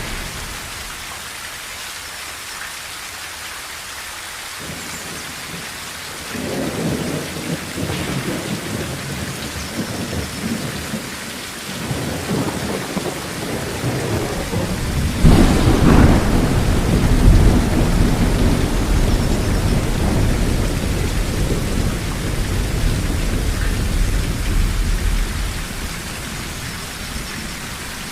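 Steady rain on a tin roof with thunder: a low rumble builds about six seconds in, then a sharp thunderclap about halfway through rolls on for some ten seconds before fading back to the rain.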